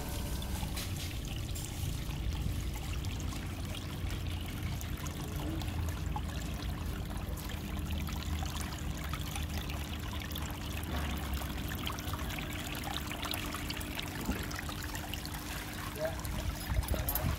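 Water trickling steadily down a small model waterfall, with a faint steady hum underneath and a few light knocks near the end.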